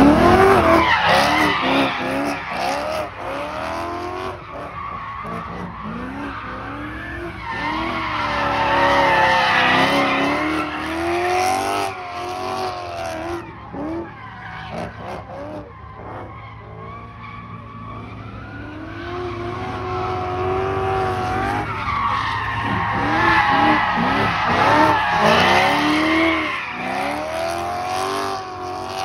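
BMW E90 M3's S65 V8 through a valved straight-pipe exhaust, revving up and down over and over as the car drifts in circles, with tyres squealing and skidding. Loudest in the first few seconds, quieter in the middle as the car swings away, then louder again.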